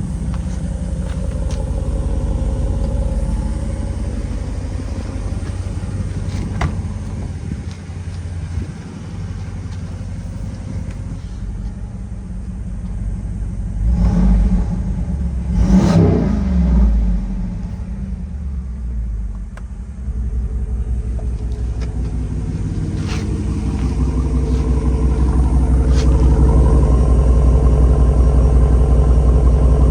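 Jeep 392's 6.4-litre HEMI V8 running through a Borla Type S exhaust: a steady exhaust note, with one rev that rises and falls about halfway through, then a louder, steady note near the end.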